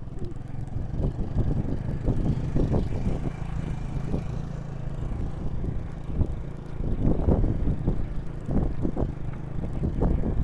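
Wind buffeting and low rumble on a camera microphone carried on a mountain bike riding a dirt trail, with irregular louder gusts and jolts.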